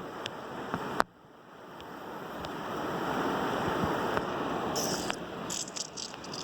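Heavy rain falling, a steady hiss. A sharp click about a second in, after which the rain sound drops away and swells back over the next two seconds.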